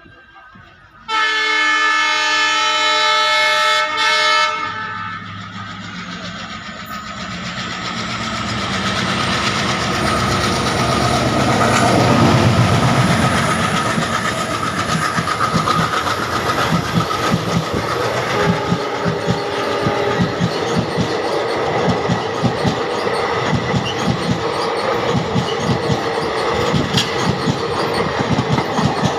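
Train horn sounding loudly for about three and a half seconds, then the train running at speed: a rumble that builds for several seconds and gives way to a rapid, steady clatter of wheels over rail joints, with a brief second horn note partway through.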